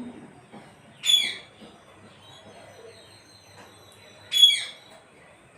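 Parrot giving two short, shrill screeches about three seconds apart, the first about a second in.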